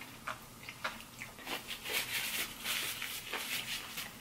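Close-up chewing of crunchy fried okra: irregular, crisp crunches and wet mouth sounds.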